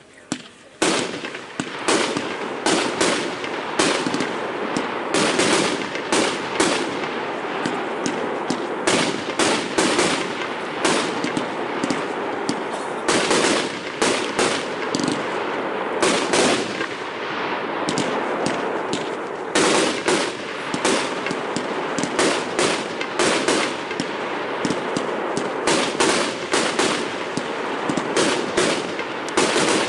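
Fireworks going off in a long, rapid, continuous string of sharp bangs and crackles, starting about a second in.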